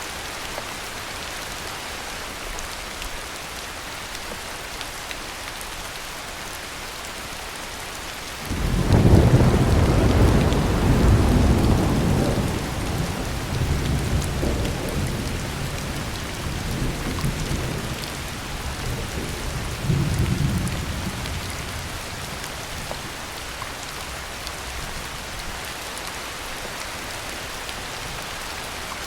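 Steady heavy rain throughout. About a third of the way in, a thunderclap breaks in suddenly and rolls on as a deep rumble in several swells for about a dozen seconds before dying away under the rain.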